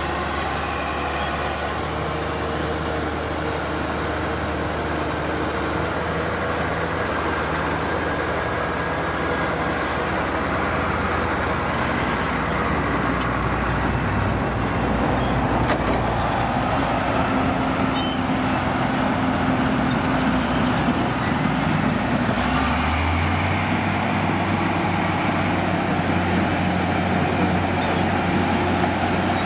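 Heavy vehicle's diesel engine running steadily; about 22 seconds in its pitch steps up and it grows a little louder.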